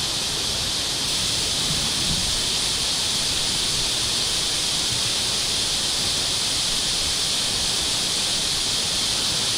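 Steady rushing water, an even hiss strongest in the high range, getting slightly louder about a second in.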